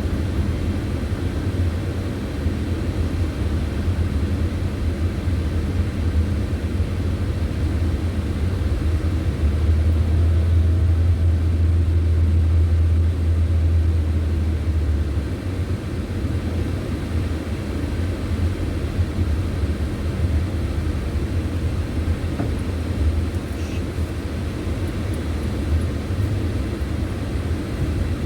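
Car driving along a road: a steady low road-and-engine rumble that swells for about five seconds around ten seconds in, then eases back.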